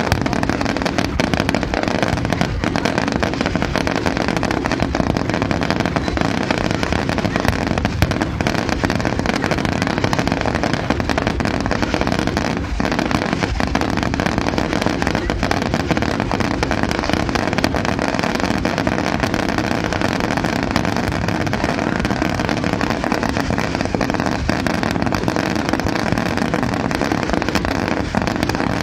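Fireworks going off in a dense, unbroken stream of crackling and popping, with a few sharper bangs standing out.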